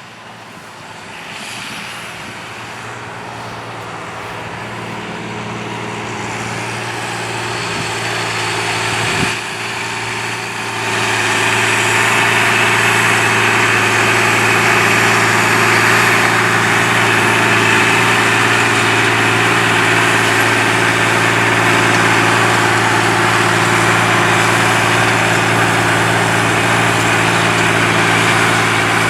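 John Deere 8300 tractor's six-cylinder diesel engine running steadily under load while cultivating. It grows louder over roughly the first eleven seconds, then holds steady. There is a brief knock about nine seconds in.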